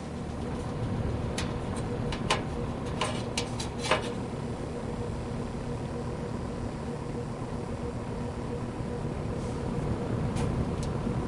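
General Electric W22 box fan running with its blade on: a steady rush of air over a faint even motor hum, its shaded-pole motor freshly repaired of a loose coil. A few sharp clicks sound in the first four seconds.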